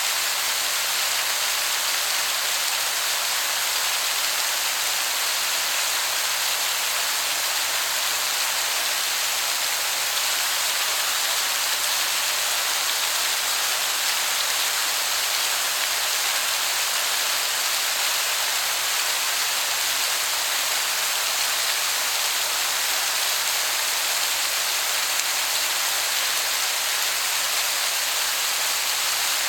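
Waterfall's steady rushing hiss, sounding much like heavy rain, even and unbroken throughout.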